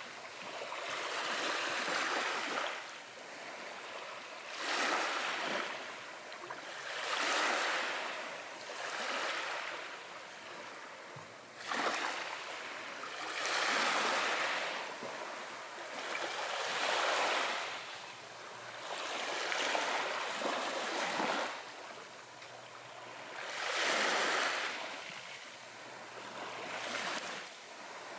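Small waves breaking and washing in one after another, a rising and falling hiss every two to three seconds, one wave landing more sharply about twelve seconds in.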